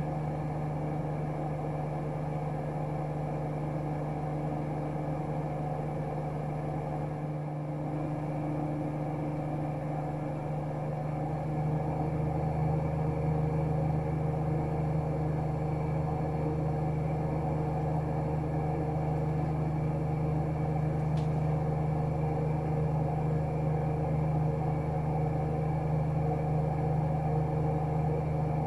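AEG Öko-Lavamat 76910 washing machine, driven by a three-phase inverter motor, spinning with a steady hum that grows louder about twelve seconds in as the drum picks up speed.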